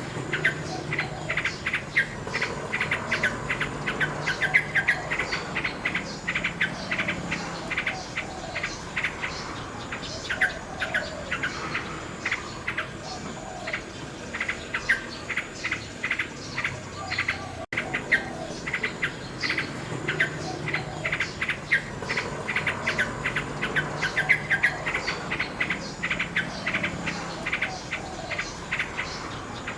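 Nightingale singing: fast runs of rapidly repeated chirping notes, with insects chirring along and a brief cut-out in the sound about two-thirds of the way through.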